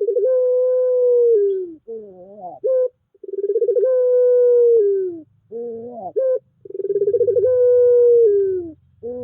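Puter pelung dove cooing: three long, drawn-out calls, each opening with a rapid pulsing roll, held on one pitch and then sliding down. Each long call is followed by a few short broken notes.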